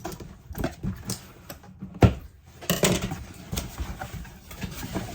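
Cardboard box being opened and handled: irregular knocks, taps and scrapes, with a sharper knock about two seconds in.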